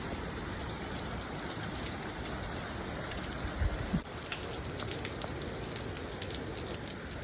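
Steady hiss of rain and wind from Hurricane Beryl's early bands, with a few light ticks about four seconds in.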